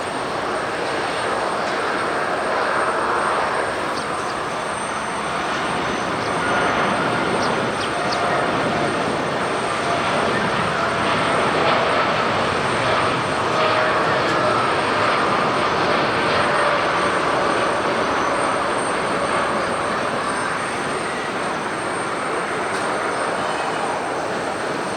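Jet airliner engines running as the aircraft passes: a steady rushing noise with faint whining tones that swells towards the middle and eases off near the end.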